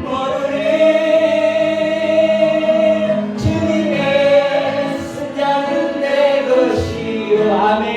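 A church choir singing a Korean praise song in unison, drawing out long held notes with short breaks between phrases.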